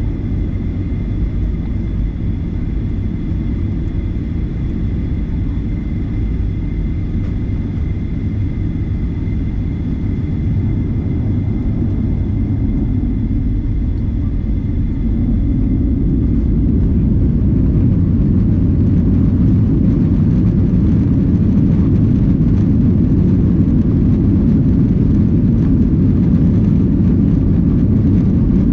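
Boeing 737-900ER's CFM56-7B jet engines heard from the cabin: a steady rumble with a faint high whine, then about fifteen seconds in the rumble grows louder and the whine fades as the engines spool up to takeoff power for the takeoff roll.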